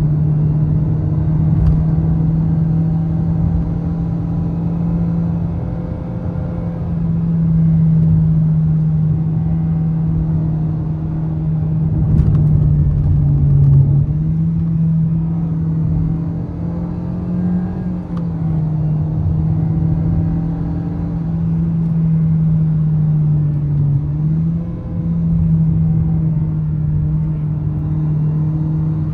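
Toyota Vios engine droning steadily under throttle while driving, with road and tyre noise underneath. The pitch dips briefly about halfway through and again about four-fifths of the way in, as the revs drop and pick up.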